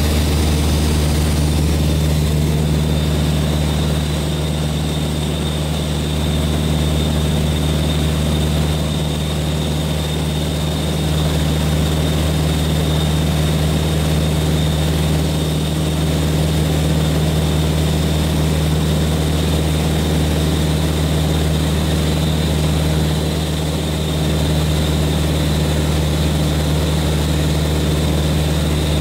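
Cessna 182 Skylane's six-cylinder piston engine and propeller droning steadily in flight, heard from inside the cabin, with a steady high whine above the low drone.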